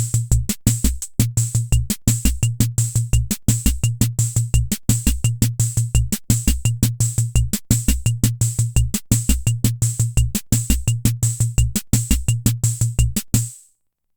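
Hammond Auto-Vari 64 analog rhythm machine playing one of its preset beats: a quick, even run of hissy cymbal ticks over low, pitched drum tones. It stops suddenly near the end.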